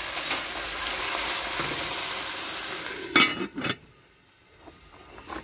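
Shredded cabbage and carrot sizzling in a pot on a portable gas stove, a steady hiss. About three seconds in, a couple of loud metal knocks, and the sizzle drops away to near quiet.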